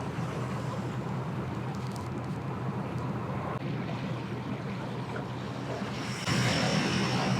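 Boat motor running steadily with a low hum, over wind and water noise. About six seconds in it gets louder and a high steady whine joins it.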